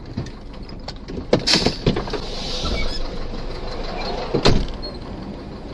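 Road vehicle collision: a cluster of loud bangs about a second and a half in, a scraping hiss, and another sharp bang near the end, over steady vehicle running noise.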